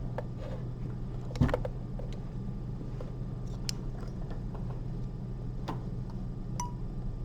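Surgical instruments clicking while suturing: one sharp click about a second and a half in, then a few light ticks, over a steady low room hum.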